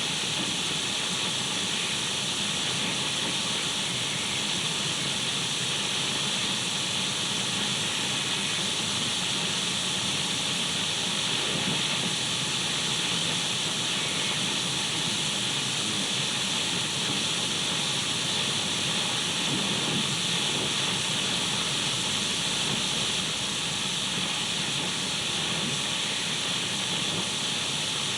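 Radio static: a steady, even hiss, brightest in the upper pitches, that does not change.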